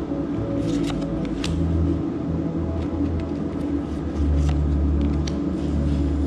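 A steady low hum with held low tones that change every second or so, and a few light clicks of trading cards being handled.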